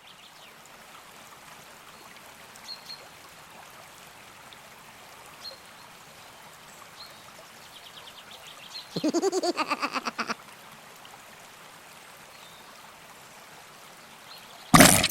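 River water flowing steadily, with a few faint bird chirps. About nine seconds in, a child's voice rises for just over a second in quick pulses, and near the end a single loud, sudden noise.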